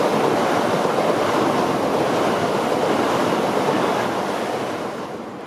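Class 375 Electrostar electric train running past along the platform: a steady rush of wheel and air noise that fades away near the end as the last coach goes by.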